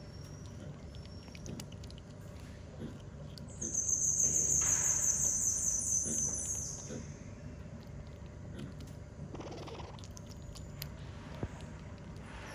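A bird gives a rapid, high-pitched trill a little over three seconds in; it lasts about three seconds and falls away at the end. Under it are faint scattered clicks of a night monkey chewing ripe melon.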